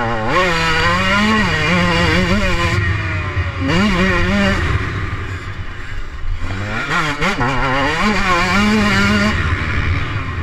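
125 cc Husqvarna motocross bike engine revving hard under throttle, its pitch climbing and wavering. There are three pulls: a long one at the start, a short one about four seconds in, and another from about six and a half to nine seconds, with the revs dropping off between them.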